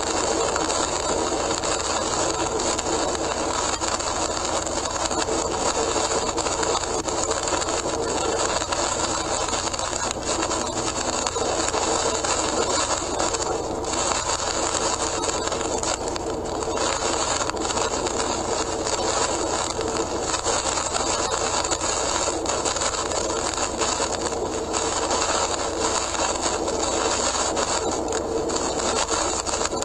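Car driving at speed on a rain-soaked expressway, heard from inside: a steady rush of tyre and road noise with wet spray, dipping briefly a few times.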